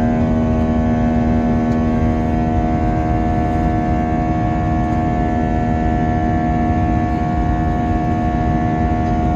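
Airbus A321 jet engines heard from inside the passenger cabin: a steady drone of low rushing noise with several steady humming tones over it, unchanging throughout.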